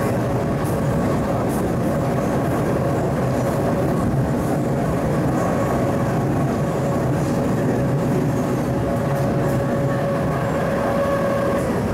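MTR East Rail line mid-life-refurbished MLR electric multiple unit running, a dense rumble of wheels and running gear under a steady traction-equipment whine.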